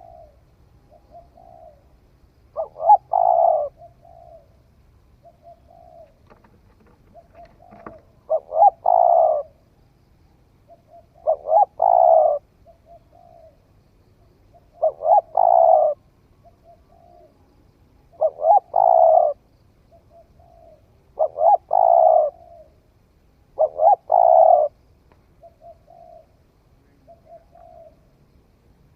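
Spotted dove cooing: seven loud phrases about three seconds apart, each a quick run of low coos lasting about a second, with soft single coos between them. It is the territorial call of a decoy dove used to draw wild doves.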